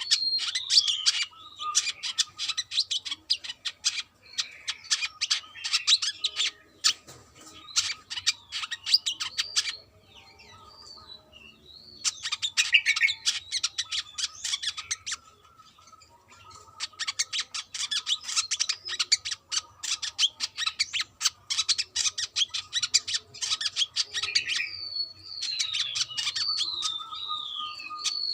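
Brown-throated sunbird (kolibri kelapa) singing hard: bouts of rapid, high chattering twitters mixed with slurred whistled notes, with a couple of short pauses between bouts.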